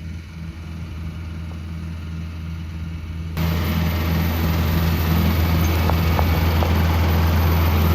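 An engine running steadily with a constant low hum, growing louder about three and a half seconds in.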